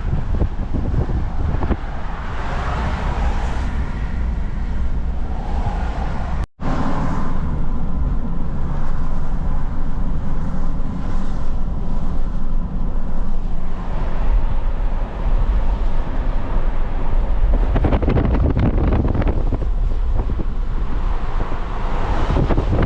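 Pickup truck driving on the road: a steady engine drone under heavy rumble from wind buffeting the microphone. The sound cuts out abruptly for a moment about six seconds in, then carries on.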